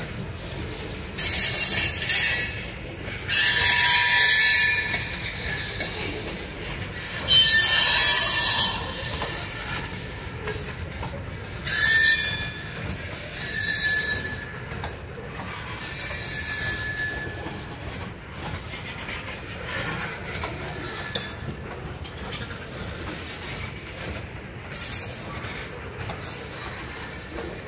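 Loaded ethanol tank cars of a freight train rolling past with a steady rumble of wheels on rail, broken every few seconds by bursts of high-pitched wheel squeal, loudest in the first half.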